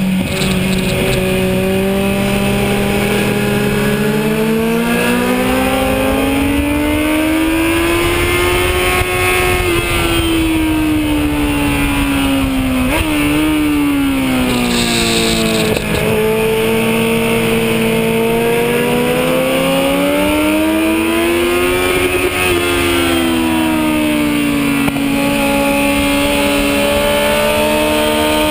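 Kawasaki Z1000's inline-four engine at full track pace, heard from the rider's seat over steady wind noise. The revs climb and fall several times as it pulls out of corners and rolls off for the next, with a sudden brief jump in pitch about 13 seconds in.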